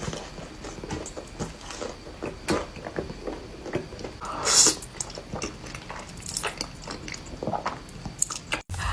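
Close-miked eating: biting and chewing with wet smacks and crisp crunches. A louder noisy crunch comes about four and a half seconds in.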